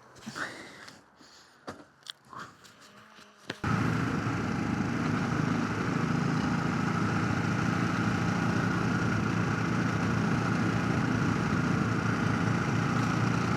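A few small clicks and taps over a quiet background, then about three and a half seconds in a sudden switch to steady motorcycle engine and wind noise at an even cruising speed.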